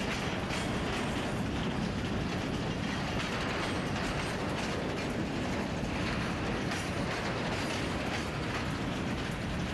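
Freight train cars rolling by: a steady rumble with irregular clicks and rattles from the wheels and wagons.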